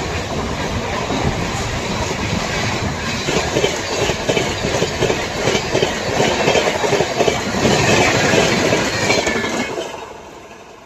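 Express train passing at speed, its wheels clattering rapidly over the rail joints in a dense rush of noise that builds, then dies away quickly near the end as the train goes by.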